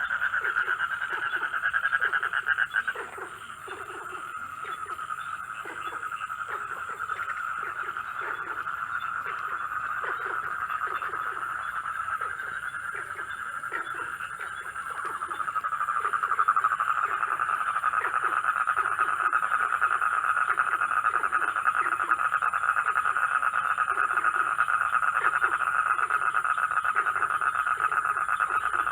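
Night chorus of frogs: a dense, steady trilling with lower croaks repeating about twice a second. The trilling swells louder about halfway through.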